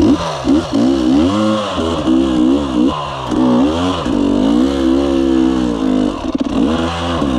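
Dirt bike engine catching and then revved over and over, its pitch climbing and dropping with each blip of the throttle.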